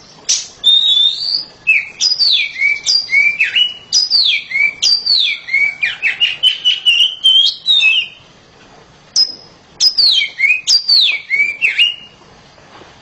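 Caged Oriental magpie-robin (kacer) singing loudly: a rapid string of clear whistled notes, many sliding down in pitch, with a quick run of short notes in the middle. The song breaks for about a second, then resumes and stops about a second before the end.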